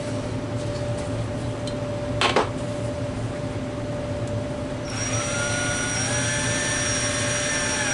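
Cordless drill spinning up and drilling a pilot hole into wood: a whine that rises in pitch and then holds steady, starting about five seconds in. A short knock comes earlier, about two seconds in.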